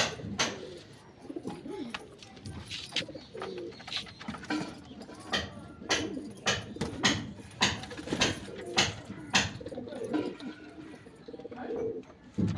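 Domestic pigeons cooing, low wavering calls throughout, with many sharp clicks and taps about once or twice a second that are the loudest sounds.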